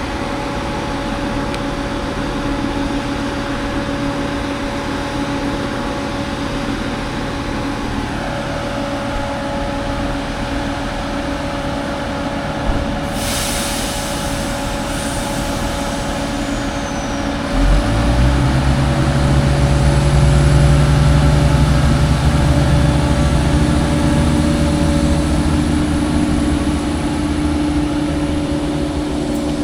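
Diesel passenger trains at a station: a steady engine drone, a brief hiss of air about 13 seconds in, then a heavier, louder rumble that starts suddenly about 18 seconds in as another diesel unit comes through.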